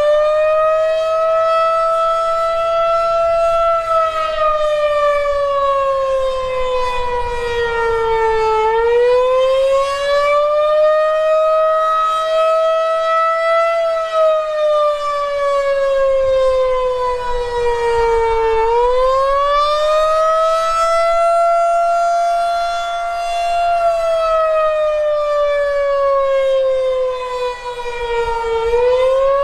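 Federal Signal 2001-130 rotating outdoor warning siren sounding its attack signal. Its two-note chord rises, holds briefly and falls in pitch, over and over, a full cycle every ten seconds or so.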